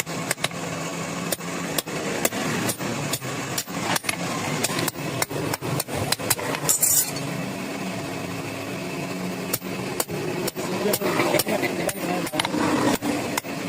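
Hand hammer striking iron on an anvil, with repeated sharp blows at roughly two a second over a steady low hum.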